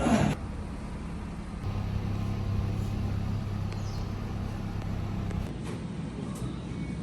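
Steady low rumble of a motor vehicle, with a low hum that rises about a second and a half in and drops away about five and a half seconds in.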